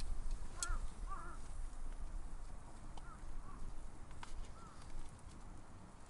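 A bird gives short chirping calls several times, over a steady low rumble, with a few sharp clicks.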